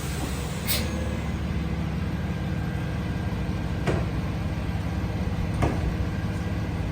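Freightliner EconicSD garbage truck's engine running steadily, with three short sharp knocks: about a second in, about four seconds in and near the end.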